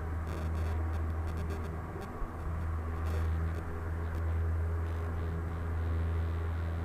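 Cessna 172's engine and propeller running at full takeoff power just after lift-off, a steady low drone.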